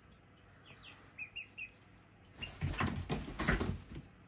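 Young chickens: three short soft peeps about a second in, then about a second and a half of wings flapping and fluttering as a chick stirs on its perch.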